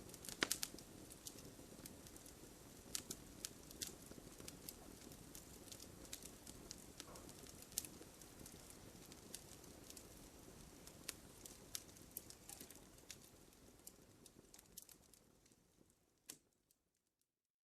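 Wood bonfire crackling: scattered sharp pops and snaps at irregular intervals over a soft, steady burning hiss. The sound fades out near the end.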